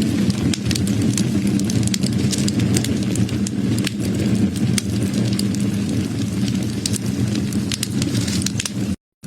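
Wood fire crackling, with frequent sharp irregular pops over a steady low rumble of flames. The sound drops out briefly near the end.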